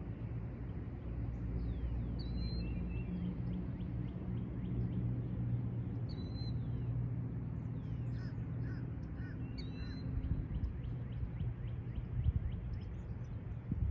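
Birds calling, with short high chirps every few seconds and a few fainter chirps near the middle, over a steady low rumble.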